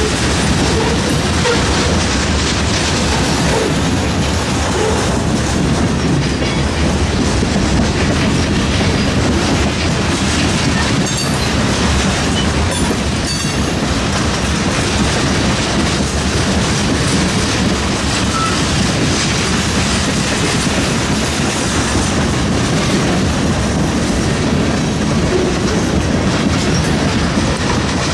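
Freight train cars rolling past, steel wheels running steadily on the rails.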